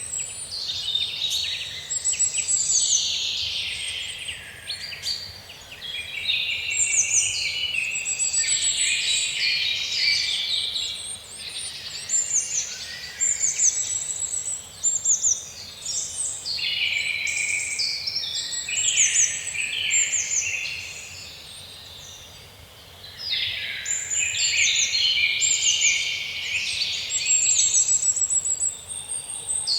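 Songbirds singing in spring, several overlapping with chattering phrases and quick high trills, almost without pause apart from a short lull about two-thirds of the way through.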